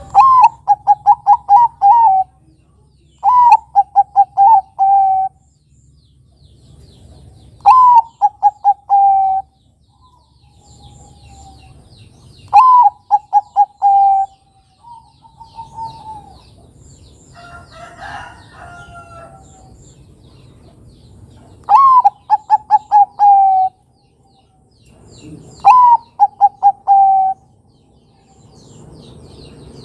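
Zebra dove (Bangkok perkutut) singing its cooing song: six loud phrases, each a sharp opening note followed by a quick run of rolling coos, repeated every few seconds. Fainter high chirps from other birds come in between the phrases.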